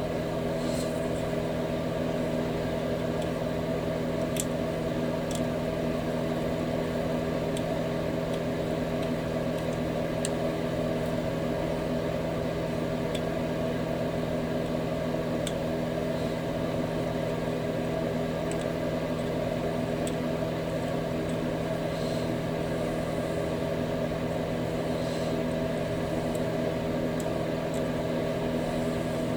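A steady, unchanging machine hum with several held tones, with a few faint light clicks over it.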